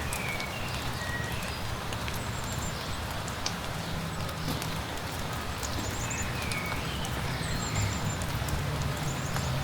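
Steady light rain with scattered sharp drop ticks, over a low rumble. Small birds chirp several times with short high calls and trills.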